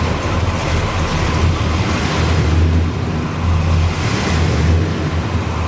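A motor vehicle running with a steady low rumble under a constant hiss of noise.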